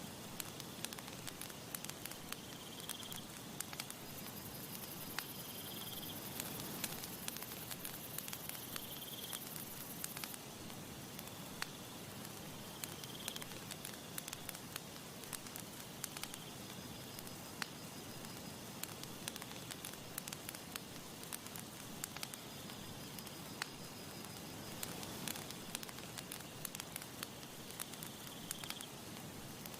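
Campfire crackling and popping with many sharp irregular snaps over a soft steady hiss of breeze. Short high chirps come every few seconds.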